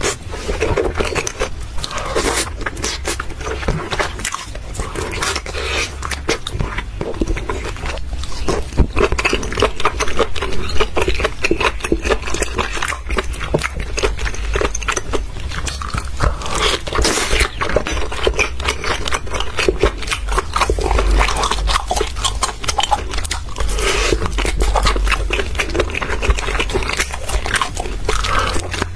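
Close-miked eating sounds of chewy braised octopus in thick sauce: chewing with wet mouth smacks and many small sharp clicks, over a steady low hum.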